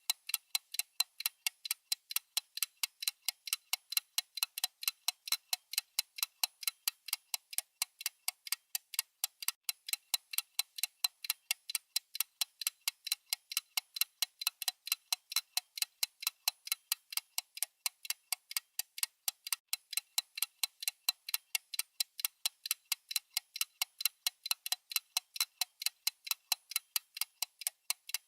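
Clock-ticking sound effect: a rapid, perfectly even run of sharp, high clicks with no low end.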